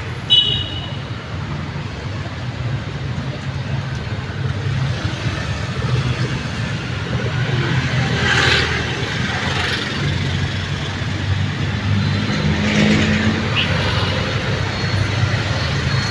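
Road traffic: a steady low engine and tyre rumble, with vehicles passing closer about eight and thirteen seconds in.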